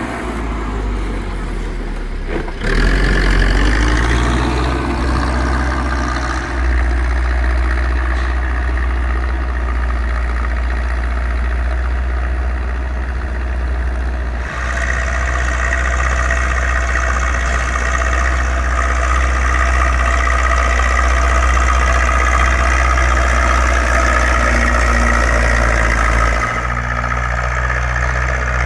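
Zetor 6245 tractor's four-cylinder diesel engine working steadily under load while pulling a plough. The sound steps louder about two and a half seconds in, turns brighter around the middle, and drops slightly near the end.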